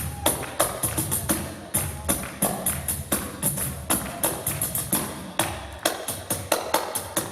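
Several pandeiros played together in a fast rhythmic groove: sharp slaps on the drum heads over low thumps, with the metal jingles shimmering on each stroke.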